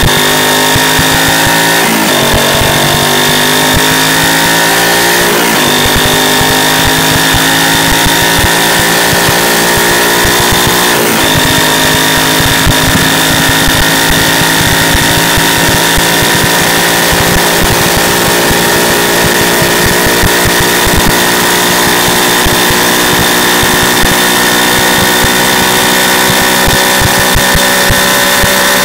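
Yamaha YZF-R125's single-cylinder four-stroke engine, with its anti-pollution (EGR) valve removed, accelerating through the gears: the revs climb and drop at upshifts about two, five and a half and eleven seconds in, then hold steady at cruising speed. Heard from a microphone mounted under the bike.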